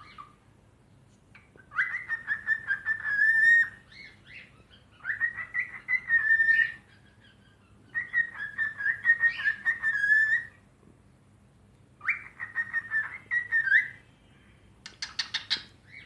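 Pet cockatiel whistling: four warbling phrases of about two seconds each, with short pauses between them, then a brief harsher chirp near the end.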